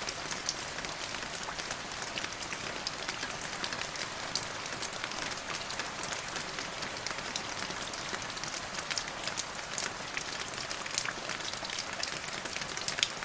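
Steady rain falling, a constant hiss with many individual drops tapping and pattering through it.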